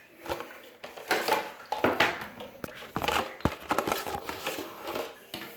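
A new plastic toilet fill valve and its packaging being handled: crinkling and rustling, with many irregular small clicks and knocks of plastic parts.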